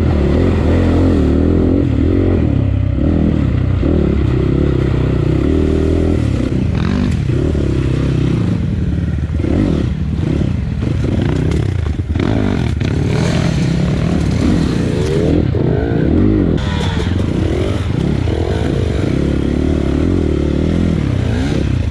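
Off-road motorcycle engine revving up and down continuously as it is ridden, with occasional knocks in between.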